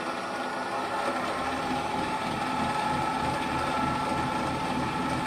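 1968 NS12 bench drill press running at top speed on its belt drive, a steady mechanical whir with two held tones. The machine vibrates, which the owner puts down to pulleys that were not properly trued.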